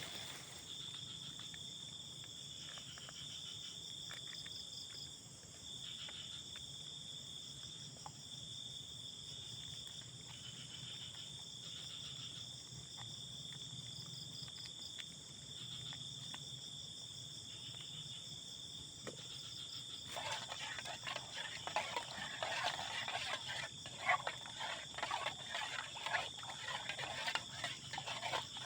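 Night insect chorus, crickets trilling steadily in several high-pitched tones. About two-thirds of the way through, an irregular rustling and crackling starts close by and runs on.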